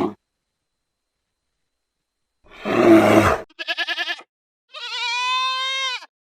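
A loud, rough grunt-like call, then a short quavering bleat and one long, steady bleat from a goat.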